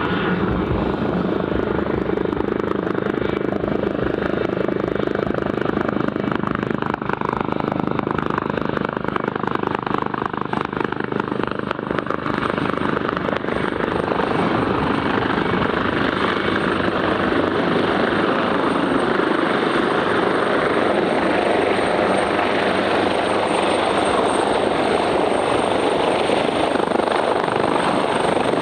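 Helicopter running: a steady, loud turbine and rotor noise, with a thin high whine coming in about eight seconds in.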